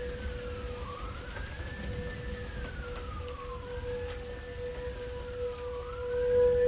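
A siren wails, its pitch rising and falling about every two seconds, with a steady lower tone held beneath it. Rain and wind rumble underneath.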